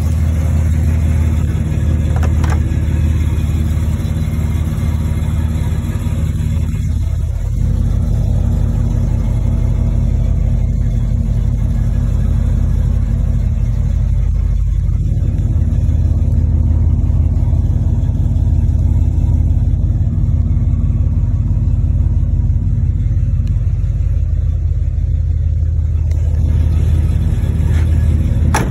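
Car engine idling steadily with an even, deep rumble.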